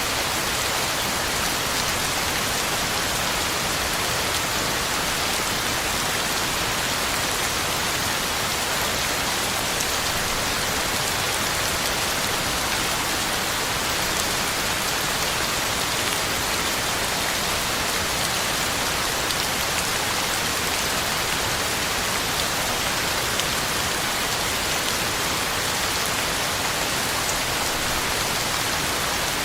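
Heavy rain falling steadily, a constant even hiss with small drop patter on the ground and leaves.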